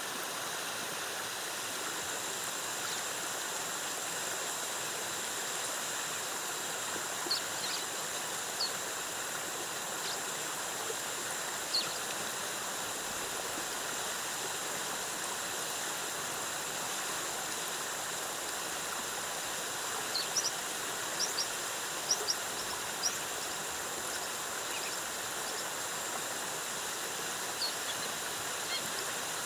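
Waterfall cascading into a pool, a steady even rush of water. Short, high chirps come in a few scattered clusters over it.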